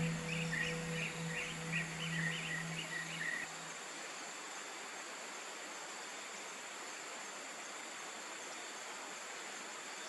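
A bird calling in quick repeated chirps over a low sustained musical drone, both stopping about three and a half seconds in; after that, steady rainforest ambience with a high insect hiss.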